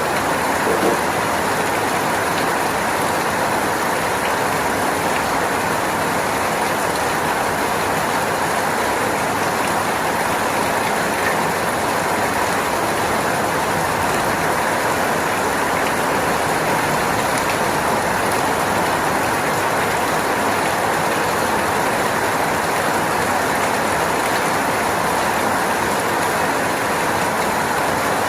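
Steady, even rain noise with no change in strength.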